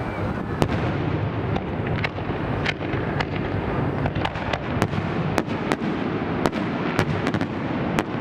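Fireworks display: a steady rumble of bursting shells with a quick run of sharp cracks, about one or two a second.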